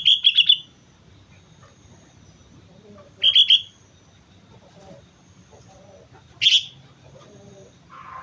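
Sooty-headed bulbul (kutilang) calling: a quick run of bright chattering notes at the start, a shorter run about three seconds later, and one brief note about six and a half seconds in.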